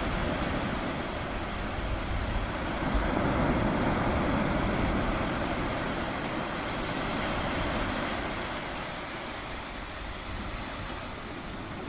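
Ocean surf: a steady wash of breaking waves with a low rumble, swelling about three to four seconds in and again near eight seconds, then easing off.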